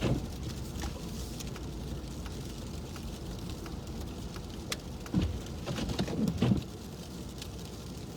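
Sleet and snow ticking on a car's windshield over the steady low rumble of the car, heard inside the cabin. A brief louder low swell comes twice a little past the middle.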